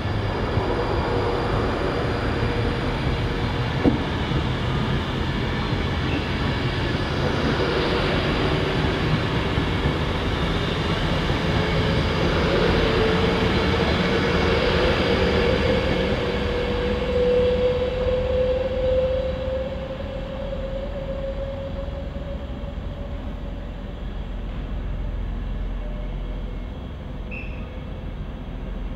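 Class 390 Pendolino electric train running past, a continuous rumble of wheels on rail with one sharp click early on and a humming tone that rises slightly in pitch through the middle. The sound drops away about two-thirds of the way through as the train clears.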